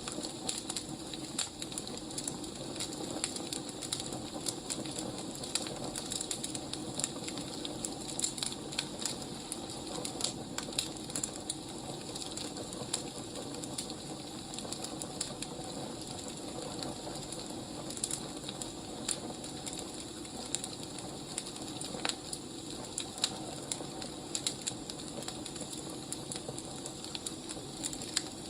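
Wood fire crackling: a steady hiss with irregular sharp snaps and pops.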